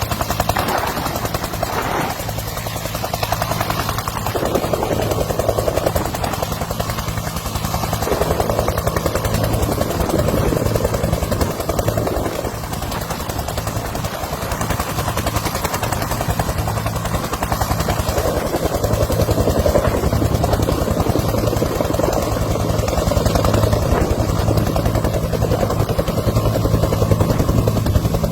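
Military helicopter running, a steady, rapid rotor beat over a low engine drone, swelling a little louder toward the end.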